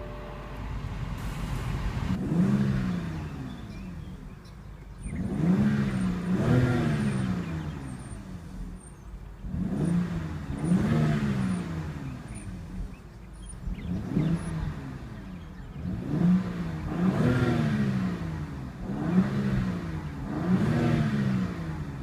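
2014 BMW X3 xDrive35i's 3.0-litre twin-turbo inline-six running at idle and being blipped about ten times, often in pairs. Each rev rises quickly and falls back to idle.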